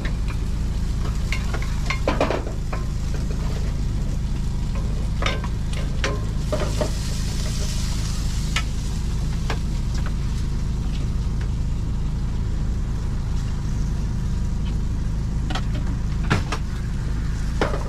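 Food sizzling on a griddle, with scattered clicks and knocks of metal utensils and a brief brighter patch of sizzle a few seconds in, over a steady low machine hum.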